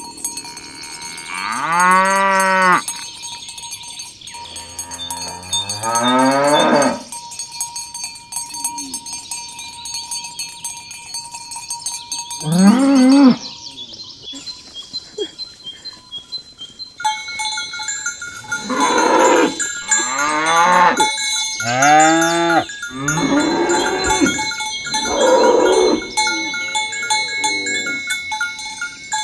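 Cattle mooing from a herd: a few separate long calls in the first half, then several calls close together and overlapping in the second half, some sliding up in pitch.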